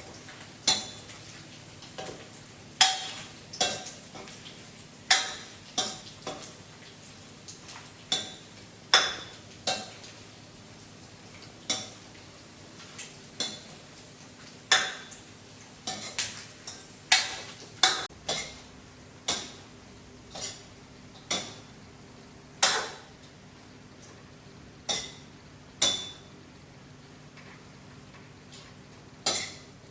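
Irregular sharp clicks and knocks of small hard objects, about one every second or so, some louder and ringing briefly.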